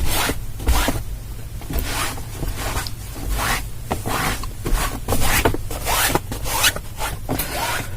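A dry towel rubbed back and forth over a cloth car seat, in short scratchy strokes about twice a second.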